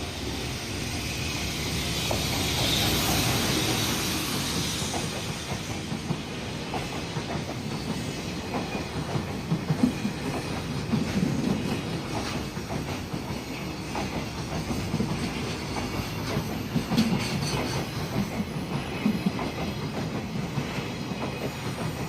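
A train running on the tracks, with a steady rumble and repeated clicks and knocks from the wheels on the rails; a hiss swells over the first few seconds.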